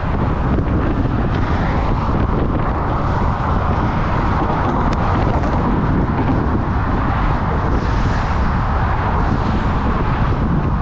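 Wind buffeting the microphone of a moving bicycle rider, over a steady rush of passing road traffic.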